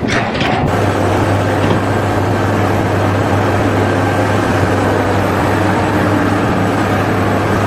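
Engine running steadily, a loud continuous drone with a deep hum under it.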